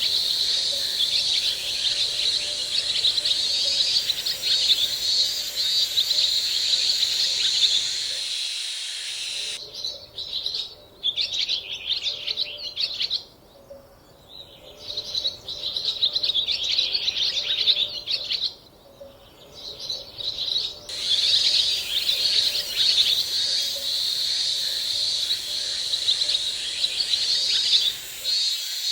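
Dense outdoor chorus of rapid, high-pitched bird chirping that thins out briefly twice midway.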